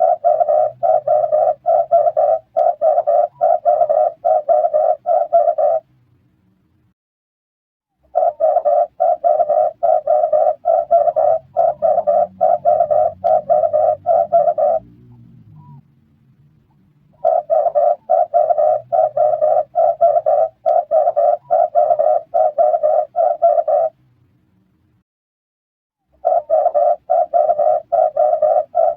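Red turtle dove calling: bouts of rapid, evenly repeated notes, each bout lasting about six seconds, with pauses of two to three seconds between them.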